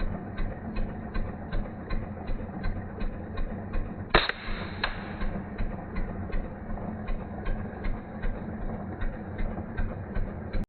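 A single sharp crack of an air-rifle shot about four seconds in, with a brief ring after it and a lighter click just after. Under it runs a steady ticking about three times a second.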